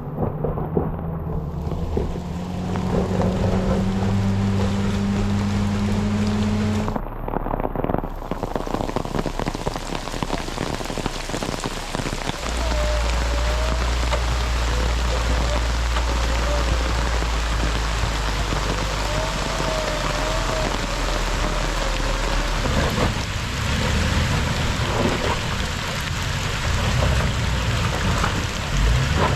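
Steady rain, with the low hum of an off-road vehicle's engine running underneath, its pitch creeping up over the first several seconds. The engine note changes abruptly a few times.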